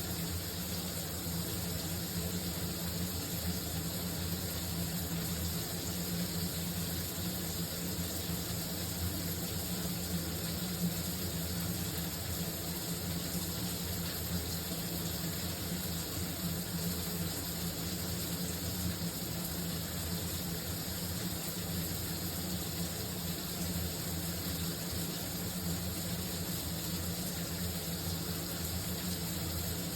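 Shower running steadily: water spraying and splattering in an even, unbroken hiss with a steady low rumble underneath.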